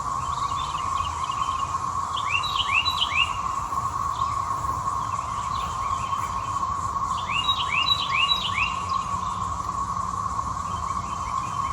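A chorus of periodical cicadas (the 2024 Brood XIX emergence) makes a loud, steady, unbroken drone. A bird's quick runs of chirps break in over it three times.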